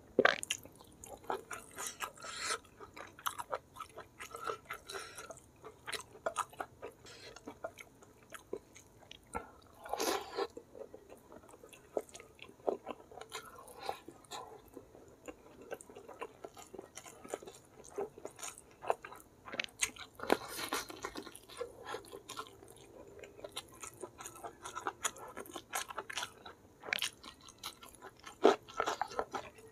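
A person chewing mouthfuls of mutton curry and rice eaten by hand, with many small irregular wet clicks and a few louder crunches.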